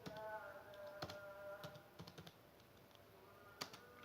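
Faint, scattered keystrokes on a computer keyboard as a command is typed, mostly in the first two seconds with one more near the end.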